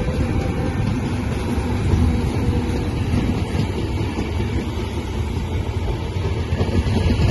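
Train running on the tracks: a steady, loud low rumble with no horn or distinct wheel beats.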